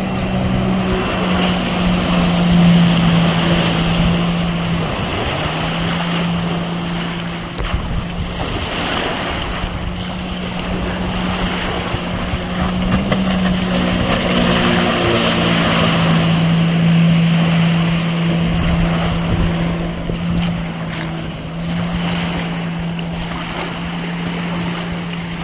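Motorboat engine running at steady high revs, its pitch dipping briefly about five seconds in, over the rush of water and wind.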